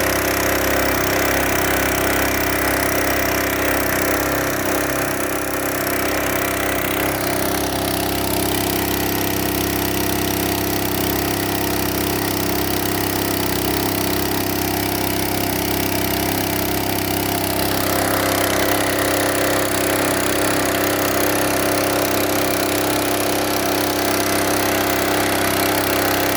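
A small engine-driven generator running steadily, powering the water pump that fills the tank. The higher hissing part of the sound shifts about a third of the way in and again about two-thirds through, while the engine note stays even.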